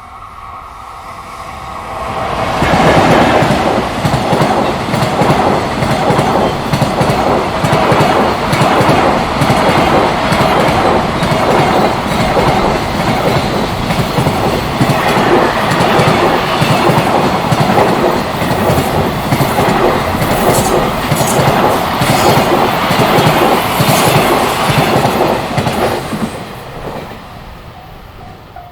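A long container freight train passing close by, its wheels clattering over the rail joints. It swells up about two seconds in, runs loud for a little over twenty seconds, and fades away near the end.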